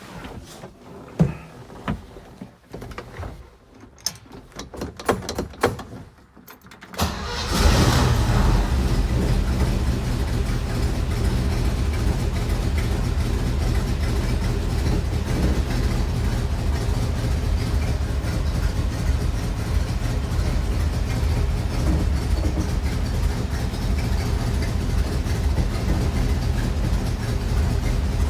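Cold start of a 1957 Corvette's 283 V8: a few scattered clicks and knocks, then the engine fires about seven seconds in and settles into a loud, steady idle while still cold.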